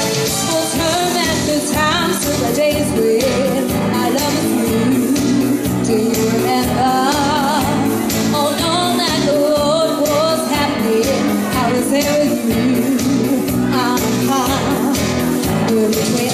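Music: a singer's wordless, wavering vocal runs over a backing track with drums and bass.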